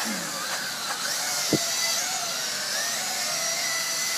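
Parrot AR.Drone 2.0 quadcopter's rotors whining in flight, their pitch drifting up and down as it manoeuvres, with a single sharp thump about one and a half seconds in.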